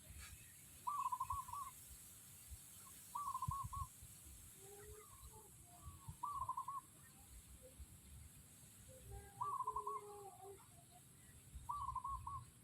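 A bird gives a short warbling call five times, about every three seconds, with a few lower, softer notes in between.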